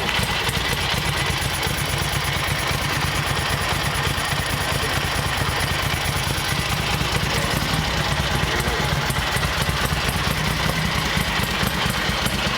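Ducati 900 Super Sport Desmo's air-cooled 90-degree V-twin engine with desmodromic valves idling steadily through its exhaust, in a rapid, even pulse.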